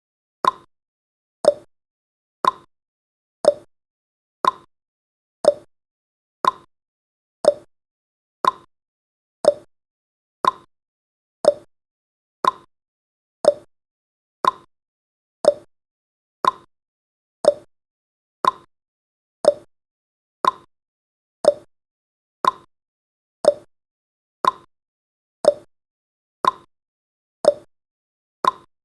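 Clock-style ticking sound effect of a countdown timer: one short, sharp tick each second, evenly spaced.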